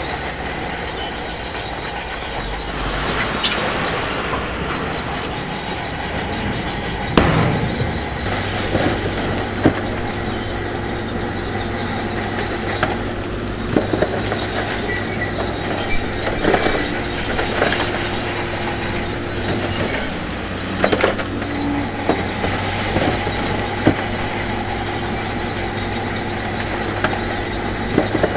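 Heavy diesel earthmoving machinery running steadily, with metallic clanks, squeals and sharp knocks of rock throughout; the loudest knock comes about seven seconds in.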